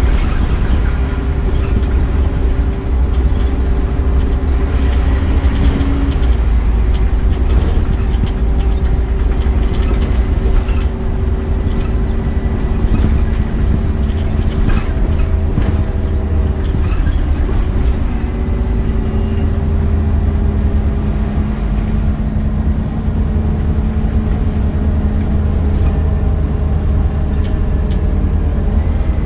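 Scania Omnicity single-deck bus running on the road, a heavy rumble under a steady drone whose pitch shifts a couple of times as its speed changes.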